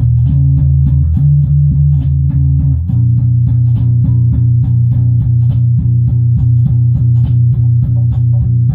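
Bass guitar playing low sustained notes over a steady, even beat, changing notes about a second in and again about three seconds in.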